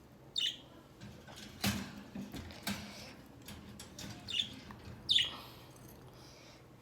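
Pet bird chirping: three short, high chirps that fall in pitch, the last near the end the loudest, with a brief rustle or knock between them.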